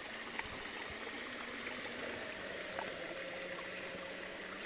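Running water of a small stream and waterfall rushing steadily. A faint steady low hum runs under it from the RC crawler's electric motor as it climbs slowly, dipping slightly in pitch about halfway.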